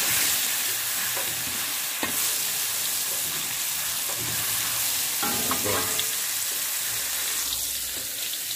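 Ground chili spice paste sizzling in hot oil in a wok, with a metal spatula scraping and tapping the pan now and then and a brief clatter about five seconds in.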